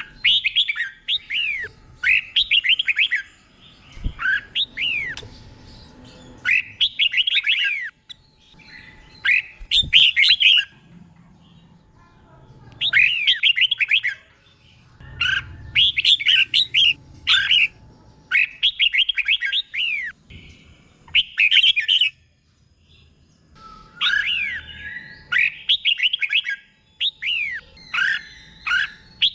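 Red-whiskered bulbul singing: phrases of quick, slurred whistled notes, each a second or two long, repeated with short pauses between, the phrases often given twice in a row.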